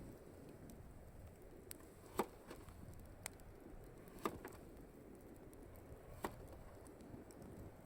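A handful of short, sharp clicks and knocks, about six spread irregularly, the loudest a little after two seconds and a little after four, over a low steady background hiss.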